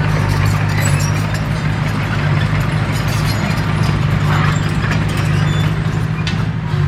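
Komatsu D21P bulldozer's diesel engine running at a steady, even drone.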